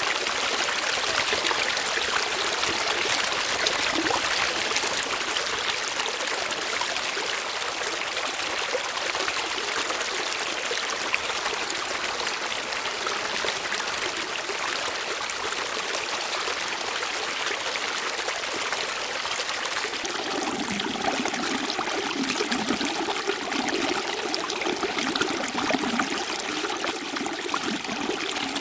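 Water flowing steadily, like a small stream trickling over stones. About twenty seconds in, a deeper, fuller water sound joins in.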